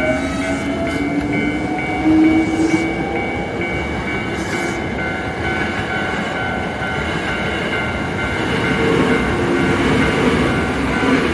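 Hankyu electric train running over a level crossing, its motor whine rising in pitch over the first few seconds above steady running noise. Over it the crossing's warning bell rings on and off without a break.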